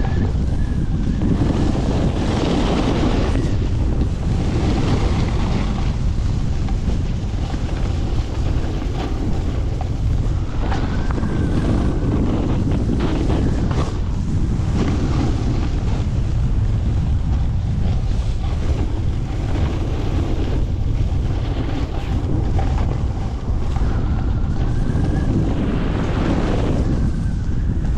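Strong wind buffeting the microphone during a fast run down a ski slope, a constant rumble. Over it, a hiss swells and fades every few seconds as the edges scrape across the snow through the turns.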